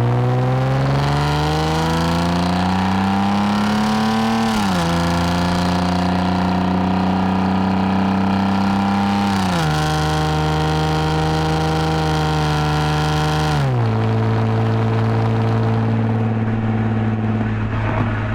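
2010 Lexus IS250 AWD's V6 with an aftermarket full exhaust and valved mufflers, accelerating under load. The engine note climbs, then drops sharply three times, about four and a half, nine and a half and fourteen seconds in, as the automatic upshifts, and holds fairly steady after the last shift.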